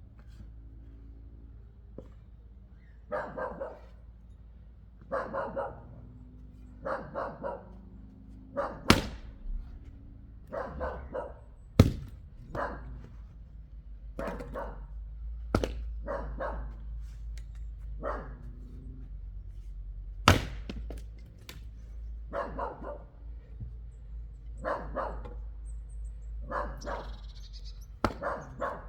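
A dog barking over and over, a short run of barks about every two seconds. Four or five sharp, loud knocks of an axe striking wood stand out among the barks.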